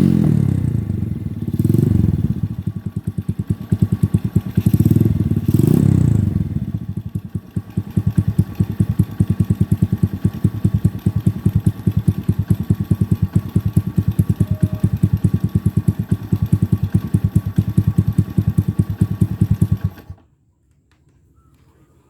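Yamaha Vega R New's bored-up 123cc four-stroke single breathing through a Ronin Katana SE aftermarket exhaust. It is revved in a few short blips, then settles into a steady, evenly pulsing idle, and the sound cuts off abruptly near the end.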